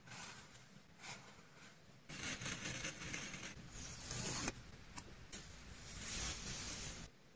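Close-up handling of journaling materials: short rustles, then from about two seconds in a longer stretch of rustling, scraping noise with a few sharp ticks, which stops suddenly near the end.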